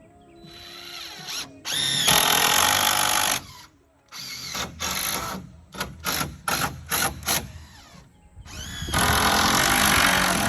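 Power drill running in bursts: the motor spins up with a rising whine into two long runs of over a second each, with a string of short trigger pulls between them.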